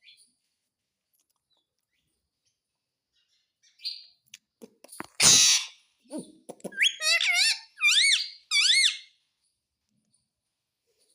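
Indian ringneck parakeet calling: a loud harsh squawk a little past five seconds in, then a run of four high, squeaky calls, each warbling up and down in pitch.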